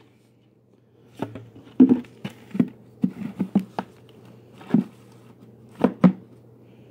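Irregular knocks and clicks, about a dozen over six seconds with some dull thumps among them, as a vacuum cleaner and its debris-filled parts are handled.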